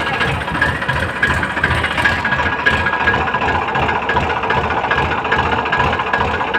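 Tractor diesel engine running steadily at idle, with an even low chugging.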